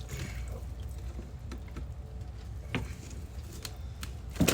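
Light scattered clicks and knocks over a low steady rumble, with one louder knock near the end.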